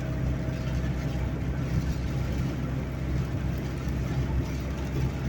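Inside a moving car's cabin: the steady drone of the engine and tyres with an even rushing hiss over it, with no sudden sounds.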